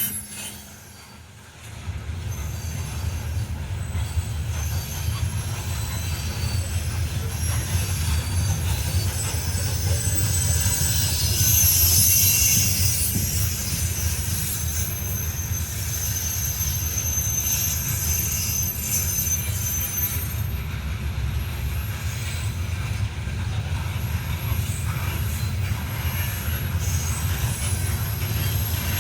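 Coal train rolling past with a steady low rumble and high-pitched steel wheel squeal, loudest about twelve seconds in.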